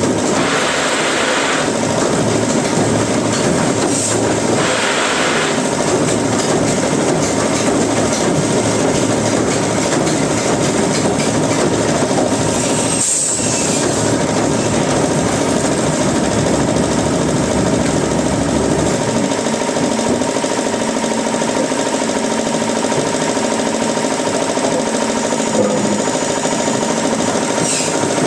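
Woodworking machinery running steadily with a dense, continuous mechanical noise and a faint steady whine; the deepest part of the noise drops away about two-thirds of the way through.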